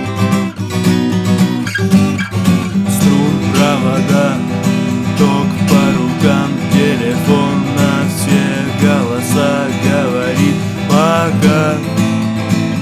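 Acoustic guitar strummed in a fast galloping rhythm across all strings, playing the song's intro chords, with a higher wavering melody line over it from about three seconds in.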